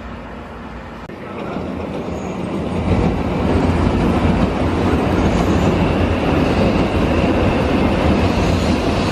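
Shinkansen bullet train approaching and running past at speed: a rushing noise that swells over the first few seconds, then holds loud and steady.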